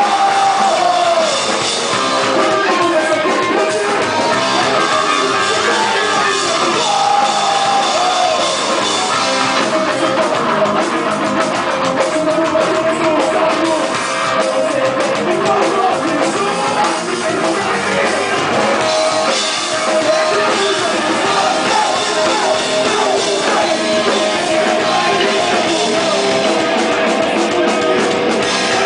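A live rock band playing a song, with drums, guitar and singing, loud and steady throughout.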